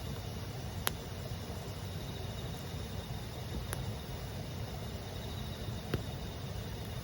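Campfire firewood popping with three sharp cracks, about a second in, midway and near the end, over the steady murmur of a stream and the chirping of autumn insects.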